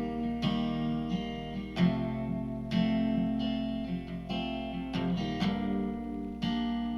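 Acoustic guitar strumming chords, a new chord struck roughly every second, as the instrumental intro of a song before the singing starts.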